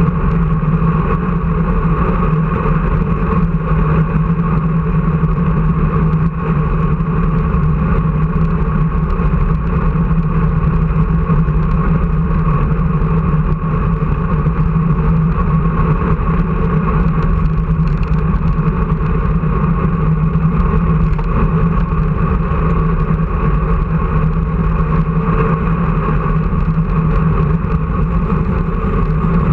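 A loud, steady motor drone that holds one pitch throughout, with no change in speed.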